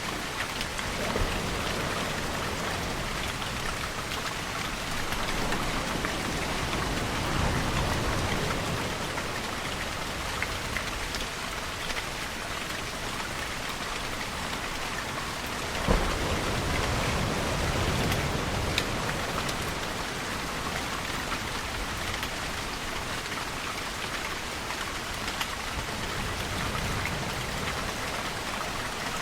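Steady rain falling and pattering on surfaces, with two low, slow swells of rumble about 8 and 18 seconds in, and a single sharp drip-like tick just before the second swell.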